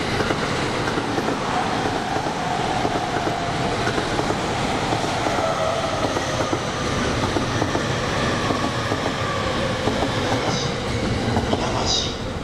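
Electric commuter train moving along the platform, a steady, loud rumble of wheels on rails with faint whining tones that slowly shift in pitch.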